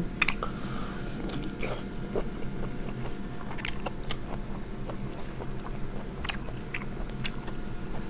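A person chewing tender sea snail meat close to the microphone, with scattered small clicks and smacks of the mouth.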